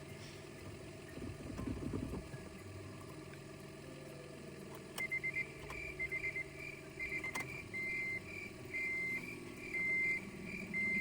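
A car's electronic warning chime beeping, starting about five seconds in with quick clustered beeps, then settling into longer beeps about once a second, over a low steady background.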